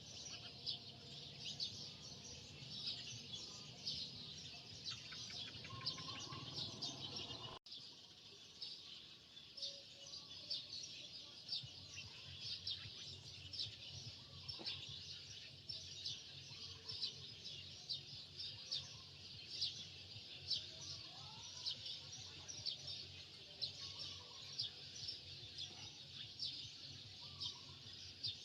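Many birds chirping rapidly and continuously, with a few higher calls that slide in pitch. The sound breaks off for an instant about a quarter of the way through.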